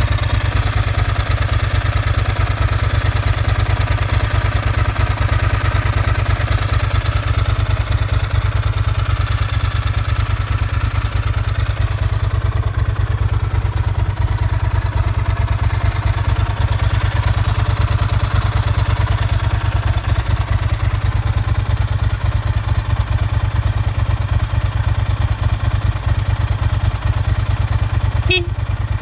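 2000 Ducati 996 superbike's L-twin engine idling steadily.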